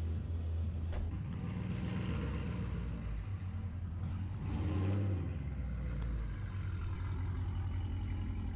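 Dodge Challenger Scat Pack's 6.4-litre HEMI V8 with long-tube headers running at idle, a steady low exhaust rumble that swells briefly about four and a half seconds in.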